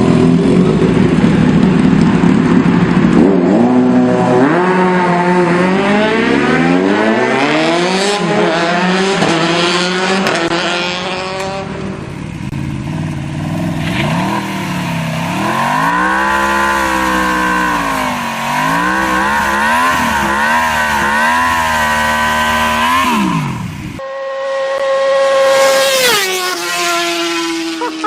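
Sport motorcycle engines revving and accelerating, the pitch rising and falling over and over as they rev and change gear. The sound changes abruptly twice, and near the end one engine drops sharply in pitch as it goes past.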